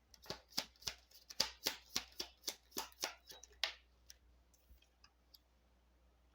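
A deck of oracle cards shuffled by hand: a quick, even run of about a dozen card slaps, three to four a second, that stops a little past halfway, followed by a few faint ticks.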